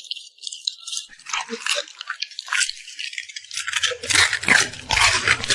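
A puppy eating close to the microphone: rapid wet clicks of chewing and lip-smacking, sparse at first and getting louder and denser about two-thirds of the way through.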